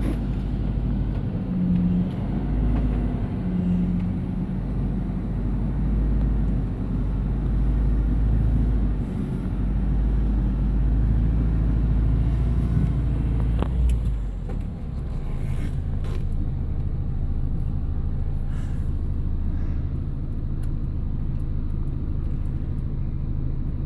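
Steady low rumble of a moving vehicle heard from inside. About 14 seconds in the heavy rumble drops away, leaving a steadier engine hum.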